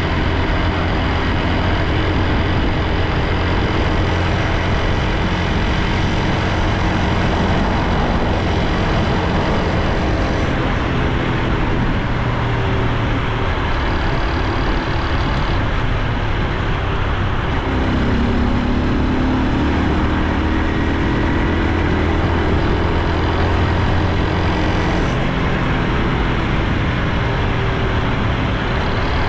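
Honda Super Cub C125's single-cylinder 125 cc four-stroke engine and exhaust running under way, with steady road and wind noise. About eighteen seconds in, the engine's pitch climbs for several seconds.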